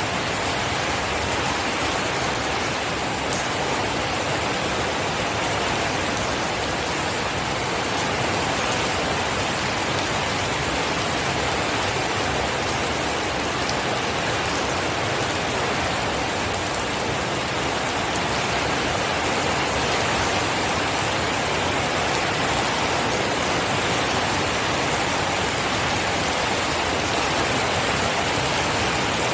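Steady rain falling and pattering on surfaces, an even hiss with scattered drop sounds and no thunder.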